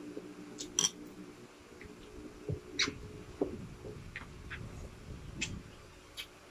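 Close-up eating sounds: chewing and wet mouth smacks, with a few sharp clicks scattered through, as fried milkfish and rice are eaten by hand.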